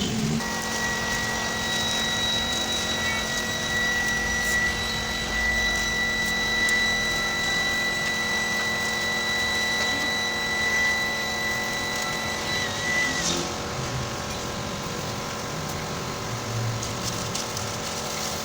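A machine running steadily with a hum of many even tones, and a high steady whine on top that wavers and stops about thirteen seconds in.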